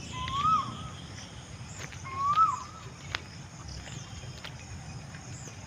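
A bird calling twice, each call a single clear note that rises and then falls, about two seconds apart, with fainter high chirps from other birds behind it.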